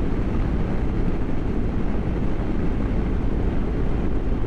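BMW GS motorcycle on the move: steady wind and road noise rushing over the rider's microphone, with the engine running underneath.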